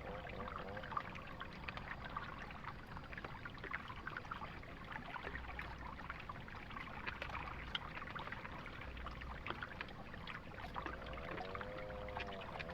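Heavy rain pattering as a dense crackle of drops over flowing river water. Near the end comes a wavering pitched call.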